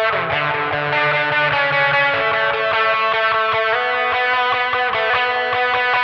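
Electric guitar played through a compressor, overdrive, delay and reverb, with held, overdriven notes that change every second or two and ring on in echoes.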